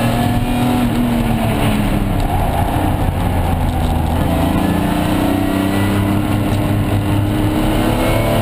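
BMW S50B30 3.0-litre straight-six in an E46 328, heard from inside the cabin. The engine note drops over the first two seconds as the car slows for a bend, then rises steadily from about halfway through as it accelerates out.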